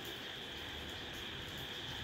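Steady night-time rain hiss with a constant high, even drone of insects behind it; no single sound stands out.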